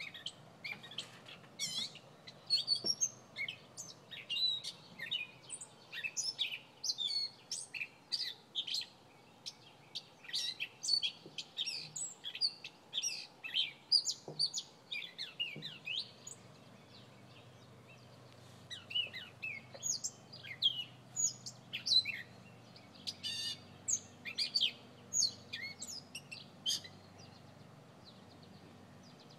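A bird chirping and twittering: a rapid, continuous run of short, high chirps and quick pitch sweeps, thinning briefly about two-thirds of the way through.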